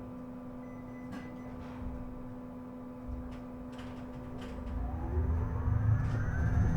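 Isuzu Erga EV electric bus heard from on board. A steady electrical hum plays while the bus stands, then about four seconds in the traction motor's whine rises in pitch as the bus pulls away and gathers speed, with growing road rumble.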